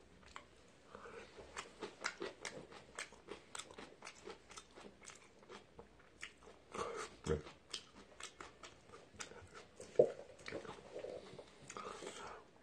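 A person chewing ramen noodles close to the microphone: many small, quick mouth clicks, with a few louder sounds about seven and ten seconds in.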